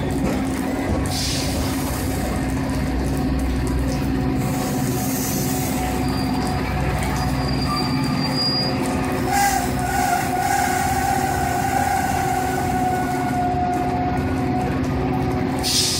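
Metra bilevel commuter train pulling into a station and coming to a stop, with a steady low rumble and hum throughout. A sustained squeal with a slightly falling pitch lasts about four seconds, starting a little past the middle.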